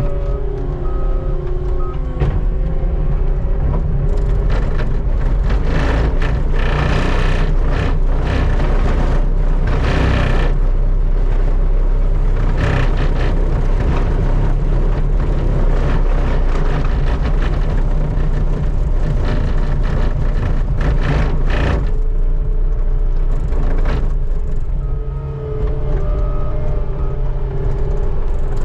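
Skid steer engine running steadily while its bucket scrapes across the pavement, with stretches of grinding noise and repeated clanks and knocks. The engine drone stands out more clearly near the start and again a few seconds before the end, when the scraping eases.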